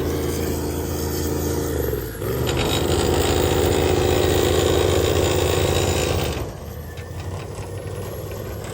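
Stub truck's engine running at steady revs on the dunes. The sound drops away abruptly about two seconds in and again about two-thirds through, coming back quieter.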